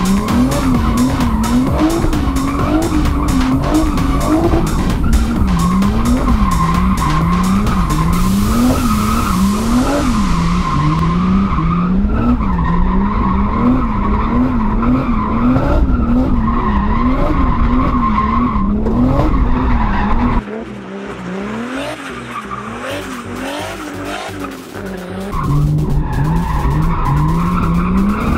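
Turbocharged BMW E46's M50B25 straight-six revving up and down about once a second under throttle while the car drifts, with tyres skidding and squealing. About eight seconds in a loud hiss starts and fades over a few seconds, and the sound drops quieter for a few seconds past the middle.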